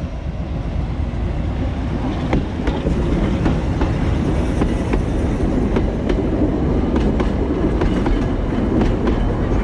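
Narrow-gauge Lxd2 diesel locomotive running close past, followed by its passenger carriages rolling by. From about two seconds in, the wheels click repeatedly on the track over a steady low rumble.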